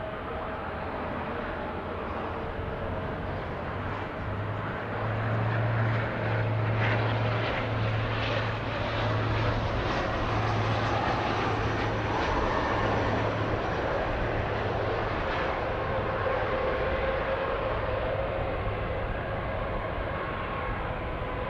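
An airplane's engines passing, a steady rushing noise that swells a few seconds in and then slowly eases, with steady whining tones running through it.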